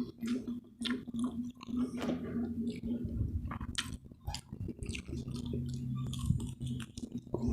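Close-miked chewing of food: irregular crisp crunches and wet mouth clicks, several each second.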